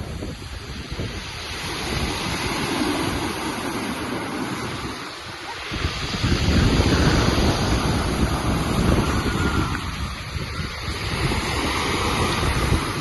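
Sea waves washing onto the shore, with wind buffeting the microphone. The surf noise dips briefly and then swells louder about six seconds in.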